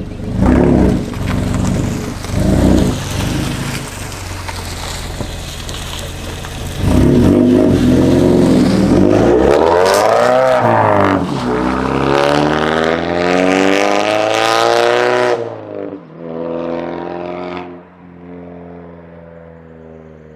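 Exhaust of a 2017 Mazda 3 GT's four-cylinder engine through a Borla axle-back with the resonator deleted: a few short revs, then a loud stretch where the pitch climbs and falls and glides down, before it drops off suddenly and settles into a quieter steady idle near the end.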